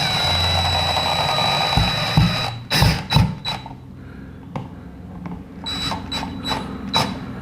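Power drill-driver running steadily with a whine for about two and a half seconds as it drives in a screw. A few knocks follow, then a string of short bursts from the drill as the screws are snugged up.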